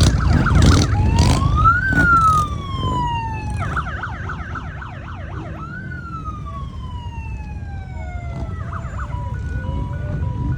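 Emergency vehicle siren sounding a slow rising and falling wail, switching to a fast warbling yelp twice, over a low steady rumble.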